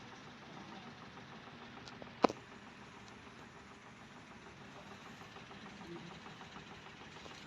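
Low, steady background hum with a single sharp click about two seconds in.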